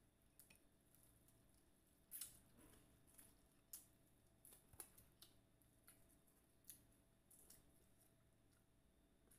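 Faint, irregular crunching and crackling of crispy fried-chicken breading being bitten, chewed and torn by hand, a scatter of sharp crackles with the strongest about two seconds in.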